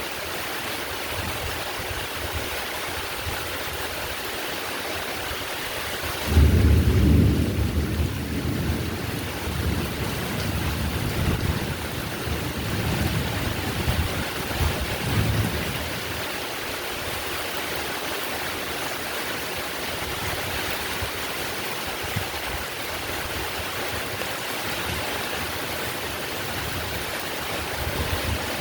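Heavy rain falling steadily. About six seconds in, thunder breaks in suddenly and rumbles low for around ten seconds before fading back under the rain.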